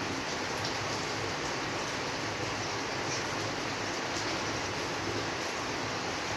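Steady rainfall: an even, continuous hiss of rain with a few faint drop ticks.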